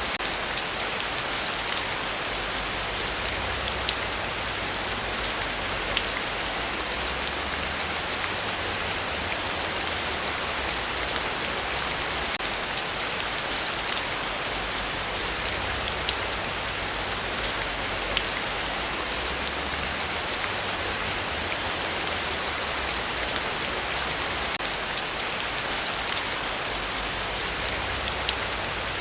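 Heavy rain falling steadily, a dense even hiss with scattered individual drop hits.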